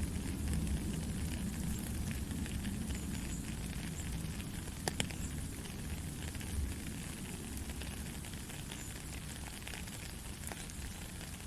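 Gentle rain falling steadily: a constant hiss of drops with scattered light ticks and one sharper tick about five seconds in, over a steady low rumble.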